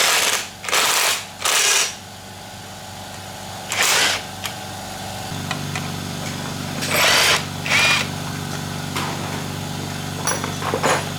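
A workshop power tool or motor running with a steady hum that grows a little louder about halfway through. Over it come short, loud, hissy bursts of about half a second each: three in quick succession at the start, one a few seconds later and two more near the two-thirds mark.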